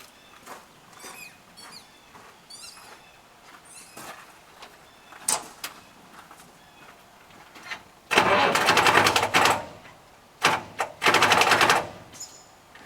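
Crane truck's engine cranked twice on its starter, each try about a second and a half long, around eight and ten and a half seconds in, without catching; the owner blames the batteries.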